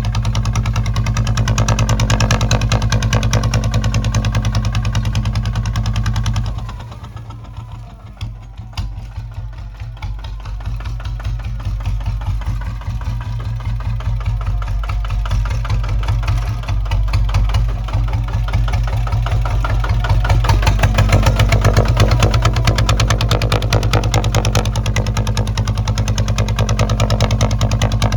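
Kubota ZT155 single-cylinder diesel engine of a two-wheel tractor running with rapid, even firing pulses. About six or seven seconds in the sound drops off sharply, then grows back steadily over the next dozen seconds and holds.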